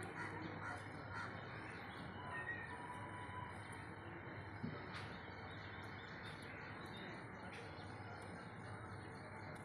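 Birds calling now and then over a steady outdoor background hiss, with a single sharp click about halfway through.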